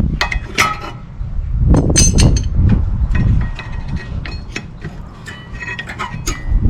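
Rear brake pads being worked out of a Toyota Sienna's caliper mount: repeated metal clinks, taps and scraping of the pads and their retaining clips against the bracket, loudest about two seconds in.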